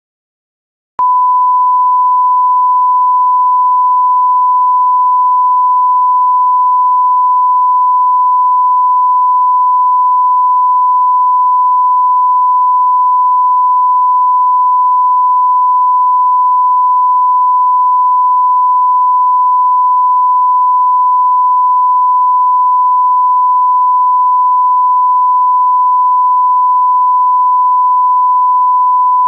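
A steady 1 kHz line-up test tone of the kind at the head of a broadcast programme tape: one unbroken pure tone that starts about a second in and holds at an even, loud level.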